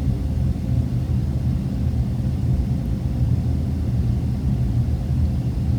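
A steady low rumble with nothing else over it.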